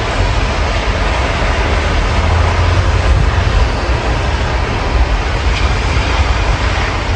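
Steady rain heard through an open window, an even hiss, over a loud steady low rumble.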